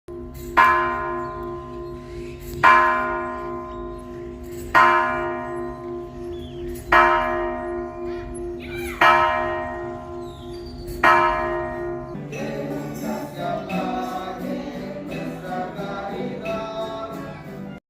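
A large church bell tolling six times, about two seconds apart, each stroke ringing on with a low pulsing hum beneath. From about twelve seconds in, a quicker, busier ringing of several shorter notes takes over.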